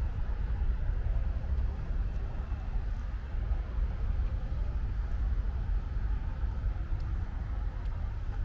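Steady low rumble of city traffic under light rain, with a few faint ticks of drops.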